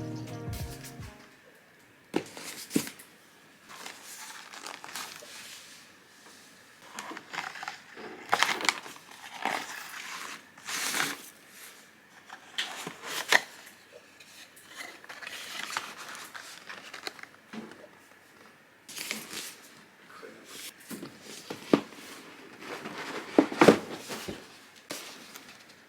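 Rustling and crinkling of packaging being handled and unwrapped, coming in irregular bursts, with a few light clicks and knocks.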